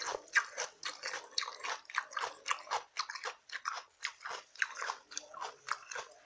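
A person chewing food with wet mouth smacks and clicks, several sharp smacks a second.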